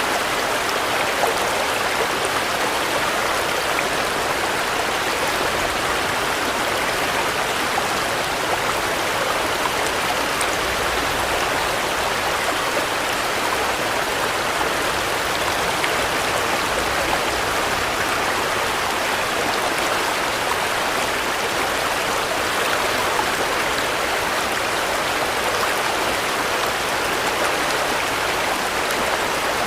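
Steady rain falling, a constant dense wash of drops with fine pattering, unchanging throughout.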